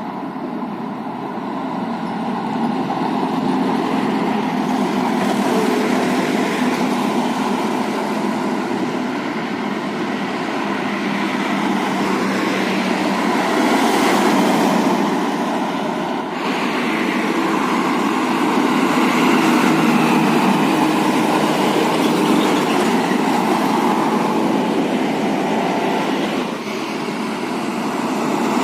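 Heavy road traffic with trucks driving past: continuous engine and tyre noise that swells and eases as vehicles go by.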